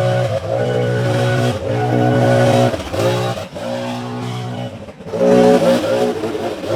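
The small engine of a handheld gas-powered yard tool revving up and easing off in repeated bursts of a second or two, dropping back briefly about three and five seconds in.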